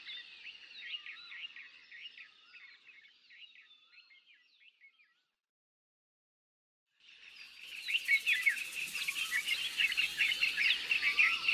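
Many small birds chirping at once in quick, overlapping calls. The chirping fades away about four seconds in, drops to silence for a couple of seconds, then comes back louder and denser about seven seconds in, with a light hiss behind it.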